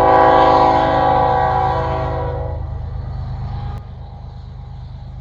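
Horn of a Lionel 6-8564 toy train locomotive sounding for about two and a half seconds over a steady low hum, then a single sharp click about a second after the horn stops.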